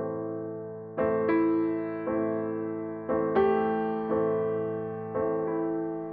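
Slow, gentle solo piano music: notes and chords struck roughly once a second, each left to ring and fade.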